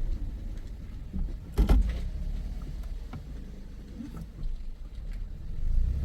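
Inside a moving car: a steady low engine and road rumble, with one sharp knock about one and a half seconds in.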